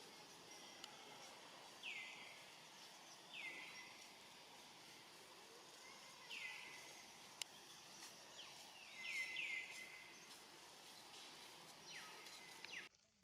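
Short high-pitched animal calls, each sliding down in pitch and levelling off, repeated about seven times at irregular intervals, with a pair in quick succession in the middle, over a faint steady background hiss. The sound cuts off abruptly near the end.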